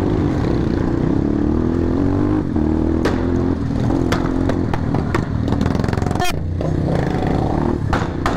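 Motorcycle engine running steadily under way, its note rising a little in the first two seconds, with several sharp cracks scattered through it.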